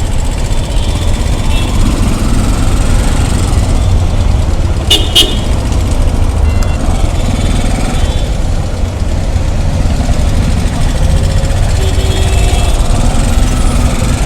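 Dense road traffic with a steady low rumble of engines, and two short vehicle horn toots close together about five seconds in.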